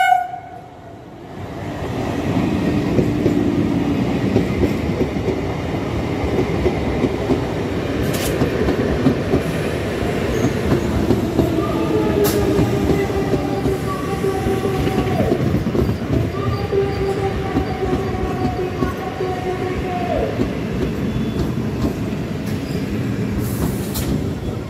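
Electric multiple unit local train running along a platform: a steady rumble and clatter of wheels on rails, with an electric whine in a few steady tones that shift in steps and drop away about twenty seconds in, and a few sharp clanks.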